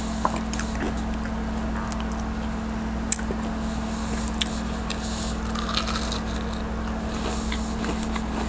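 A person chewing a crispy onion ring close to the microphone: scattered crunches and wet mouth clicks over a steady low electrical hum.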